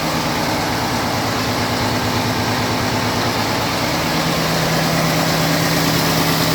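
Scania P410 truck's diesel engine running steadily while parked during a forced diesel particulate filter regeneration, an even, unchanging hum.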